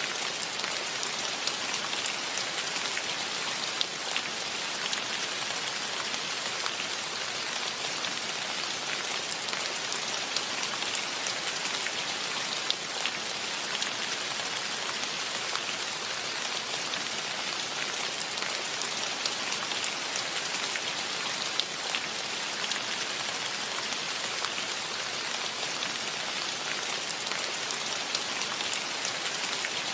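Steady rain falling, with many individual drops ticking close by at irregular moments. There is no birdsong or wind to stand out.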